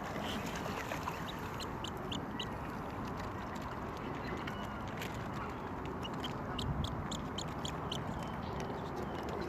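Waterbirds calling, with ducks quacking: two quick runs of short, high-pitched calls, one about two seconds in and another near the end, over steady outdoor background noise.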